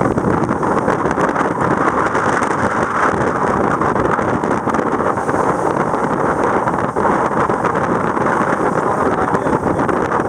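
Steady wind rushing over the microphone, mixed with the noise of a sailboat moving through the sea.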